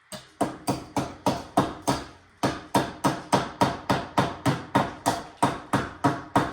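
A hard tool striking a stale gingerbread house over and over in a steady rhythm, about three sharp knocks a second with a brief pause a couple of seconds in, to knock off the dried royal icing and candy.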